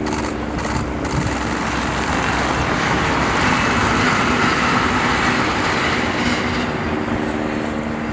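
Electric train running past on the line: a run of wheel clatter over rail joints, then a steady rolling rumble with a low motor hum that swells and fades away near the end.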